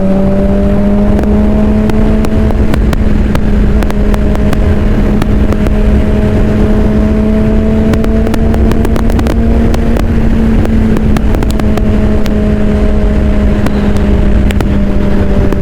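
Suzuki GSX-R600 inline-four engine running at a steady cruise, its pitch holding almost even with a slow slight rise. Heavy wind rumble on the helmet microphone runs under it, with scattered crackling clicks.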